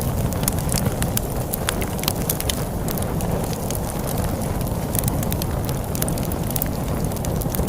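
Log fire crackling, with frequent sharp irregular pops and snaps, over a steady low rumble of storm wind.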